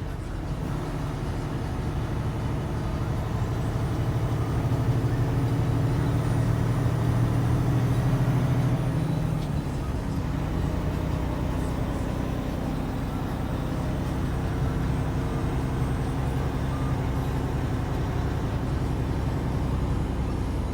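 A truck's engine running while driving, with road noise. It grows louder over the first several seconds, eases off about nine and a half seconds in, then runs steadily.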